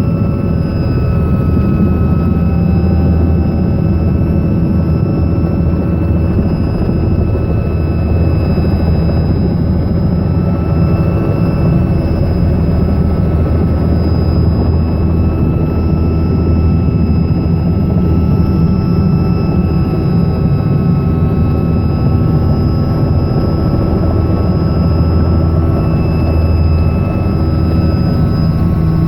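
Robinson R66 helicopter running steadily: its Rolls-Royce RR300 turbine and rotors make a constant loud low drone with thin, steady high whine tones above it.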